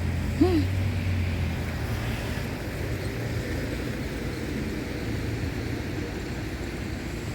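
Street traffic noise: cars passing on a wet, slushy road, a steady hiss of tyres, with a short squeak about half a second in.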